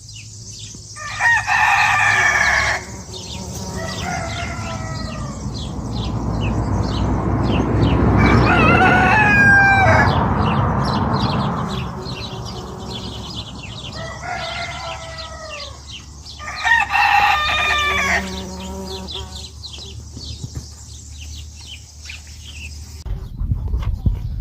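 Roosters crowing about five times, each crow a long drawn-out call that falls in pitch at the end, some nearer and louder than others. In the middle a rushing noise swells and fades under them, and there are faint bird chirps in the background.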